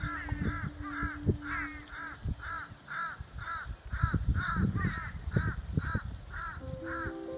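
A bird calling the same short rising-and-falling note over and over, about two a second, over soft held tones of background music.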